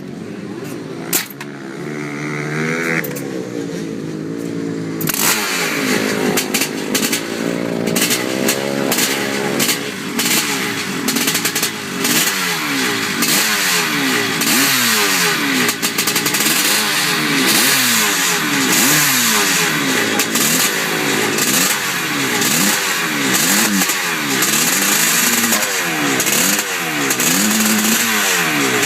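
Two-stroke Yamaha dirt bike engine running, lower for the first few seconds, then from about five seconds in revved up and let fall again over and over.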